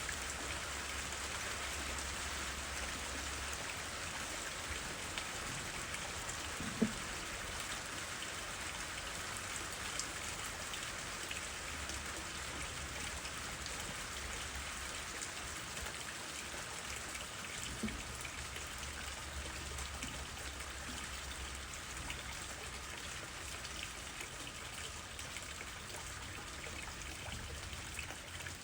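Steady rain falling, an even patter, with a couple of louder single drops, one about a quarter of the way in and one about two-thirds in.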